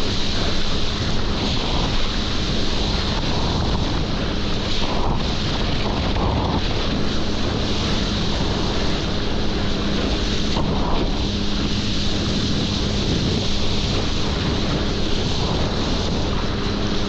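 Wind buffeting the microphone and water rushing during a jet ski run, with the jet ski's engine a steady hum underneath.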